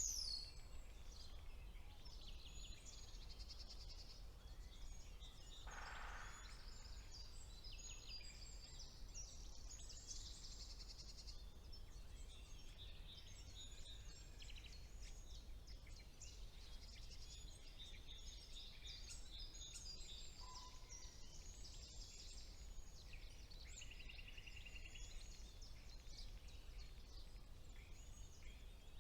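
Faint chorus of many songbirds singing at once in a spring woodland, with overlapping high chirps and rapid trills throughout, over a steady low background rumble.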